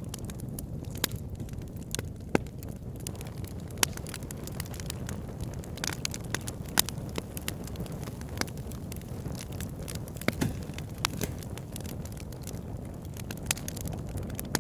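Wood fire burning in a fireplace: a steady low rush of flame with sharp crackles and pops at irregular moments, a few of them louder than the rest.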